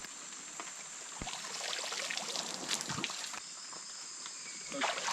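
Rainforest insects droning steadily at a high pitch, with a swell of rustling or splashing noise in the middle and a single sharp knock about a second in.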